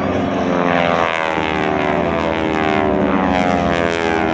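Formation of North American T-6 Texan aerobatic planes flying past, their radial engines droning with several overlapping tones that fall steadily in pitch as they go by.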